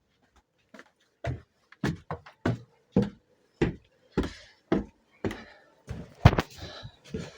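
Footsteps going up, a steady series of thuds about two a second.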